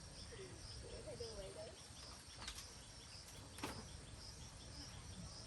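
Outdoor rural ambience: insects chirping in an evenly repeating high pulse over a steady high hum. A faint voice is heard early on, and there are two sharp clicks about two and a half and three and a half seconds in.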